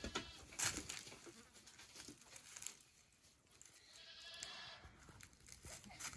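A goat bleats once, a pitched cry of about half a second some four seconds in. A few short rustles and knocks come in the first second.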